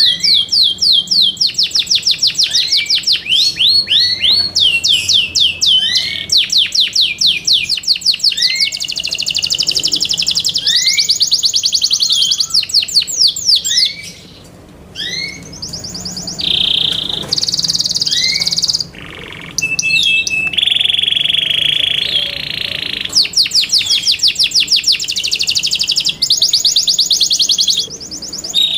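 Yorkshire canary singing a long song: fast rolls of rapidly repeated chirping notes, broken by a few held whistled tones a little past the middle and a short pause about halfway.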